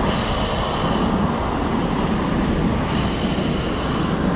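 A fire whirl giving off a steady, loud rushing noise of wind and flame, heaviest in the low rumble.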